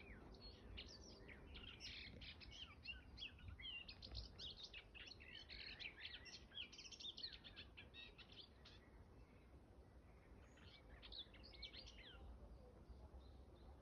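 A small songbird singing a faint, long, fast twittering song of high chirps and trills, then, after a short pause, a second, shorter phrase.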